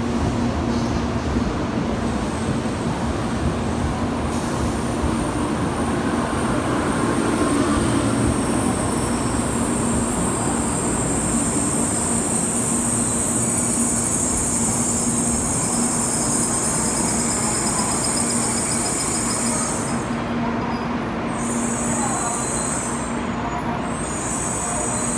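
Tokaido Shinkansen train pulling into the platform, its running noise steady with a high whine that sets in a few seconds in and sinks slightly in pitch as it slows.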